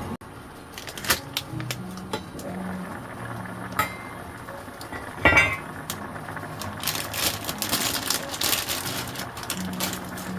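Cookware being handled: scattered clinks and knocks of metal pots and utensils, the loudest a ringing knock about halfway through, with busier ticking near the end. Soft background music with low held notes plays under it.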